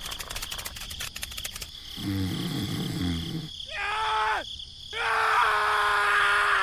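A run of voice-like cartoon sound effects: rapid clicks, then low pulsing grunts, a short call that bends in pitch, and one long call held on a single note.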